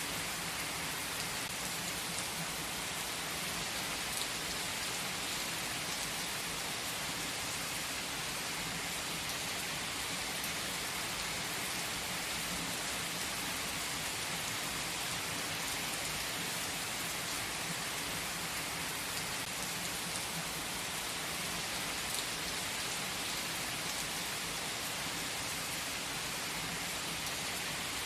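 Steady rain falling, an even hiss with faint scattered drop patter that does not change.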